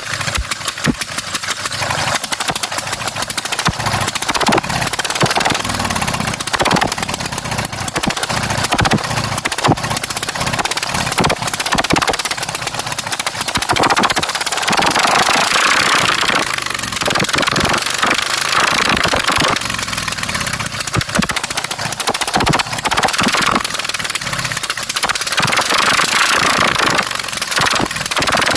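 Straight-piped V-twin engine of a racing lawn mower running with a rapid, raw exhaust crackle. The revs rise and fall, loudest about halfway through and again near the end.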